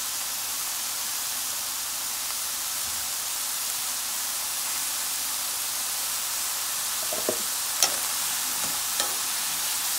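Chopped white mushrooms sizzling steadily in a pan of coconut oil and butter. Near the end a wooden spatula knocks against the pan a few times as they are stirred.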